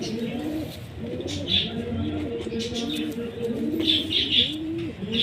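Domestic pigeons cooing: repeated low, rising-and-falling coos from several birds overlapping, with short high chirps over them, most in a cluster near the end.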